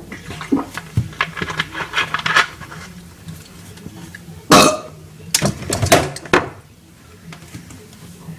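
Dishes and other hard objects clinking and clattering as they are moved about, in two bursts with a loud knock about halfway through, over a steady low hum.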